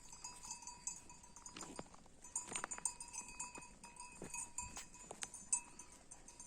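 Bells on grazing livestock clanking and ringing faintly and unevenly, with scattered sharp knocks.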